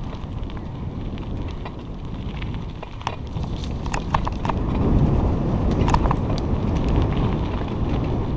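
Bicycle riding along a trail: a steady low rush of wind and tyre noise on the microphone, with scattered clicks and rattles, growing louder from about five seconds in.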